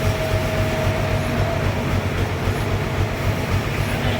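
Sawmill machinery running steadily while sawing a trembesi log into boards: a continuous loud mechanical drone with a steady whine over a fast, low throb.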